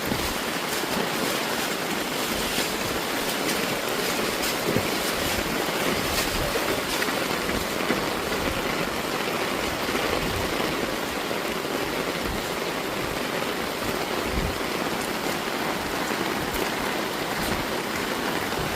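Rain and floodwater: a steady rushing hiss of water running over the road, with scattered faint sharp ticks.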